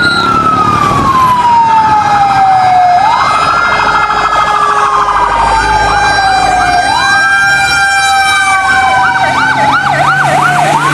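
Fire engine siren wailing: a tone that falls slowly over about three seconds and then sweeps quickly back up, three times over. Near the end a faster up-and-down warble joins in.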